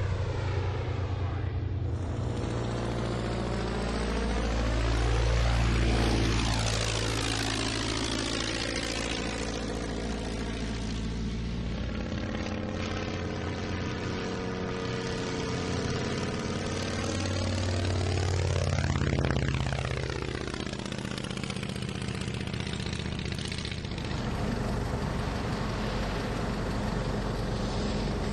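Propeller-driven piston-engine aircraft flying past with a steady engine drone, swelling loudest twice, once about six seconds in and again near the twenty-second mark, as it passes close by.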